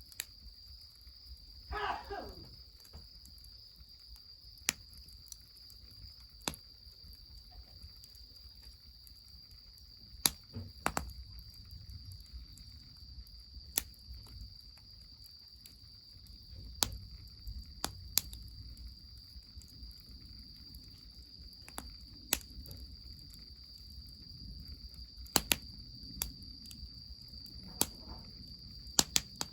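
Wood fire crackling, with sharp isolated pops every second or two, over a steady high chirring of insects and a low rumble of running spring water. About two seconds in there is a short falling sound.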